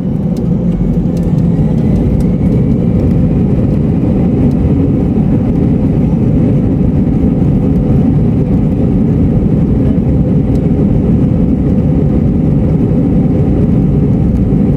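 Cabin noise of an Airbus A320 during its takeoff: the engines at takeoff power, heard as a loud, steady rumble and rush that builds slightly in the first second and then holds. A faint rising whine sounds over it early on.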